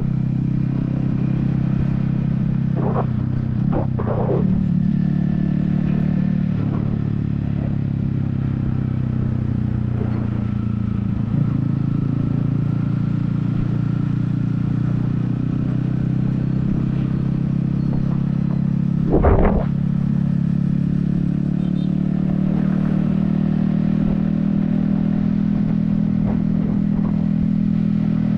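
Yamaha XSR155's 155cc single-cylinder engine running steadily at cruising speed, its pitch shifting slightly, with wind rumble on a helmet-mounted microphone. There are a few brief knocks, a louder one about two-thirds of the way through.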